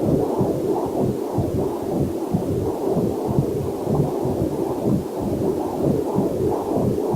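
Whooshing, pulsing heartbeat sounds picked up through a fetal Doppler heart monitor, beating steadily at about two beats a second. A faint waterfall sound is mixed in underneath.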